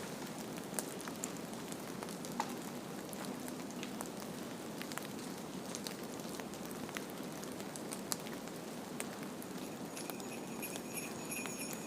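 A steady hiss with scattered sharp crackles and ticks. About ten seconds in, jingle bells start ringing over it.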